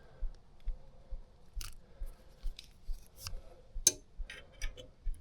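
Metal Allen keys clicking and clinking as they are handled and tried one after another for fit, with a sharp click a little before four seconds in.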